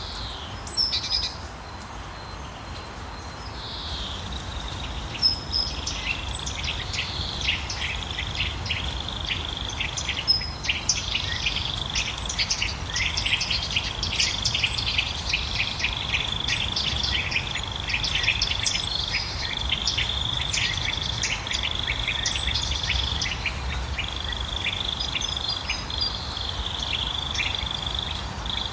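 Birds chirping outdoors: many short high calls over a steady high trill that sets in a few seconds in, with a low rumble underneath.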